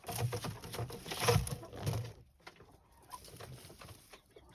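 Hens making low murmuring clucks, with rustling and light knocks as eggs are gathered from the nest boxes, busiest in the first two seconds and then quieter.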